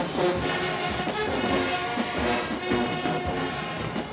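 A marching band's brass and drum line playing a dance tune, with held horn notes over a steady drum beat.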